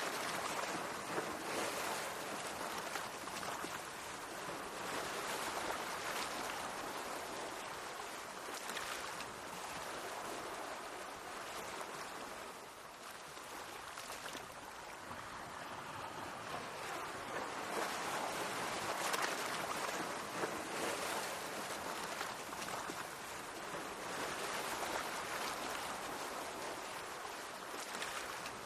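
Sea waves washing and splashing against the shore, swelling and ebbing in slow surges with occasional sharper splashes.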